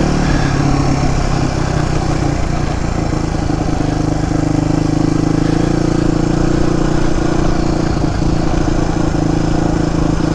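Suzuki DR250S single-cylinder four-stroke motorcycle engine running on the move, holding a steady pitch after a brief change in revs near the start.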